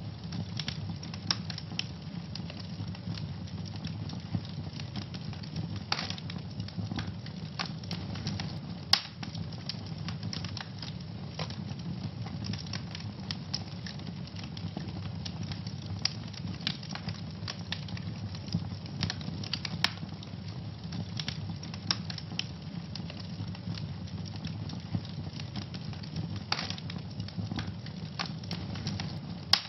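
Wood fire in a fireplace crackling: many small sharp pops over a steady low rumble of the flames. A few louder pops stand out, about six and nine seconds in, around twenty seconds and near the end.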